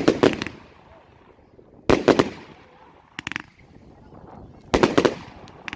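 A 30 mm compound fireworks battery cake firing in volleys: tight clusters of several sharp bangs each, coming about every one and a half to three seconds, each cluster fading off in a tail of echo. The cluster a little past the middle is fainter than the rest.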